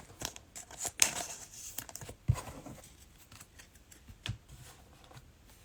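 Trading-card packs and cards being handled: quiet scattered clicks, short rustles and snaps of cards and wrappers, the sharpest about one second and two seconds in.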